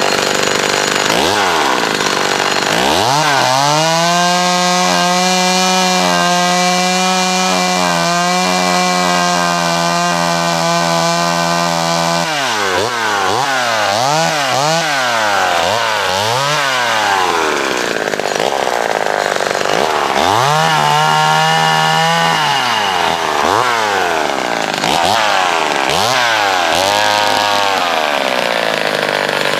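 McCulloch Mini Mac 35 two-stroke chainsaw revving up and held at full throttle for about eight seconds while cutting branches, then blipped up and down several times, with a second short full-throttle cut about two-thirds of the way through and more revving near the end.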